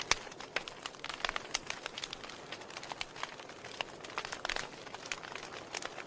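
Wood fire crackling in a fireplace: irregular sharp pops and snaps of burning wood over a soft steady hiss, with one loud pop just after the start.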